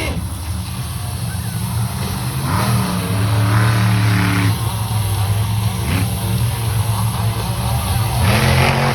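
Monster truck engine running hard at high revs, a deep steady drone that rises and gets louder about two and a half seconds in, then swells again near the end.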